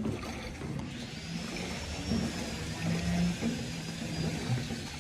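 A motor running steadily with a low hum, and a faint high whine above it from about a second in.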